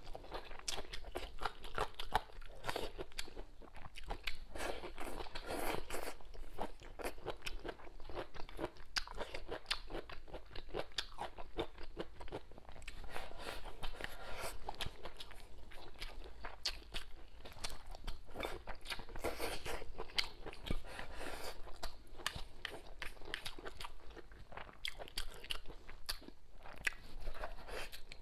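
A person eating: chewing and biting mouthfuls of rice, vegetables and braised pig tail, with a steady stream of small crunching, wet clicks.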